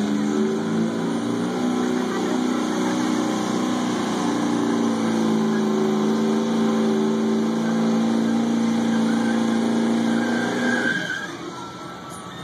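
1997 Ford F-250's 7.3-litre Power Stroke diesel engine running at steady high revs under heavy load as the truck drags the pulling sled. About eleven seconds in the engine drops off and the sound falls away as the pull ends.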